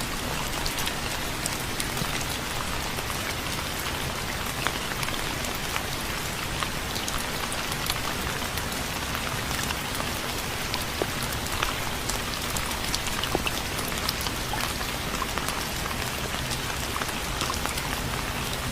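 Steady rainfall hissing, with many individual raindrops pattering on a surface.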